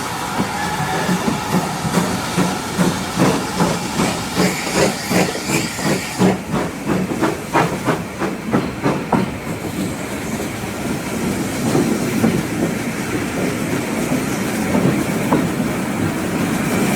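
Steam locomotive No. 9351, a GWR 2-6-0, working a train with a hissing exhaust beat at about three beats a second. The beats fade out about nine seconds in and give way to a steady running noise.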